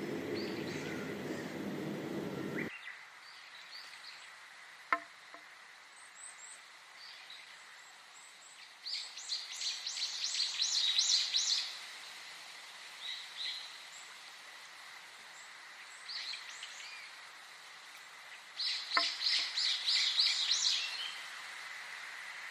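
Wild birds singing: a songbird gives a fast run of repeated high notes, twice about nine seconds apart, with scattered single chirps between. A low rushing noise at the start cuts off abruptly under three seconds in.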